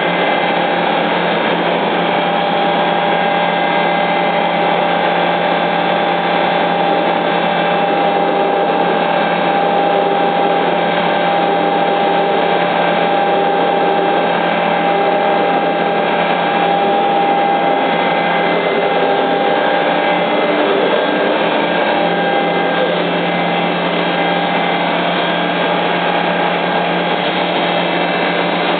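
Mura FPF22-3000 CNC milling-drilling machine running steadily, a loud, even machine noise with several held tones.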